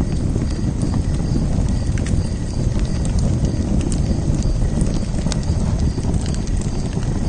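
Wood fire in a fire pit crackling, with scattered sharp pops over a steady low rumble of the flames.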